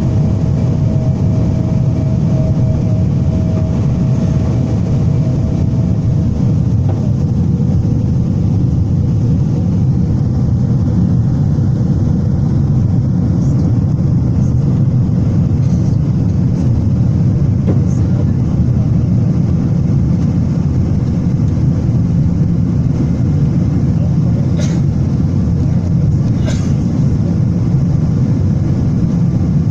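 Airliner jet engines heard from inside the passenger cabin during takeoff: a loud, steady low rumble with a thin whine that drops away about seven seconds in.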